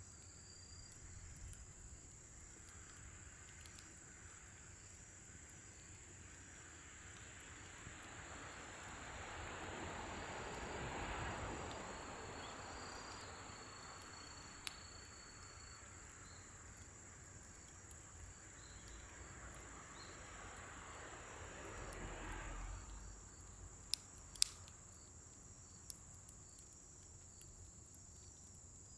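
Crickets chirring steadily in a high, even band, over a scrap-wood fire that gives a few sharp pops. A broad rushing noise swells and fades twice, around the middle and again near the end.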